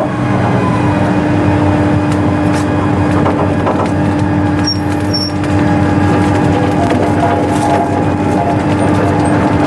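Steady machinery running, with a constant hum over a dense rumble and a few faint clicks about halfway through.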